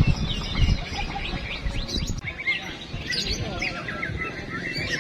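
Several white-rumped shamas (murai batu) singing at once, a dense overlap of fast chirps and whistled glides. A few low thuds sound in the first second.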